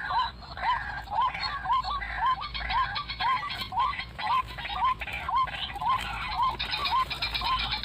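White-breasted waterhen's monotonous 'ruak-ruak' call: short hooked notes repeated evenly, about two to three a second.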